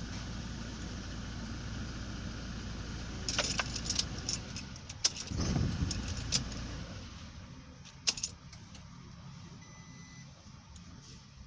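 2018 Toyota Hilux's 2.8-litre four-cylinder turbodiesel idling steadily, with keys jangling and clicking about three to four seconds in; the engine then shuts off about six seconds in, leaving it much quieter, with one more click a little later.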